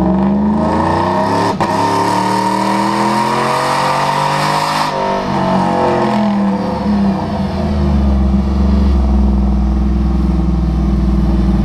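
Turbo-diesel pickup truck on a chassis dyno making a pull: the engine's pitch climbs steadily for about five seconds, then winds back down over a few seconds and settles to a steady idle.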